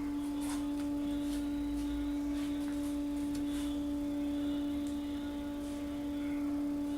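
A steady single-pitch hum, with a fainter higher tone above it, with scattered faint light clicks and clinks of hand tools being worked on the engine.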